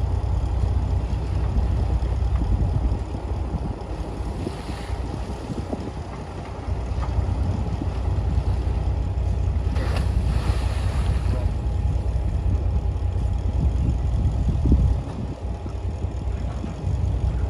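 Heavy diesel earthmoving machinery running with a steady low rumble, easing off briefly twice.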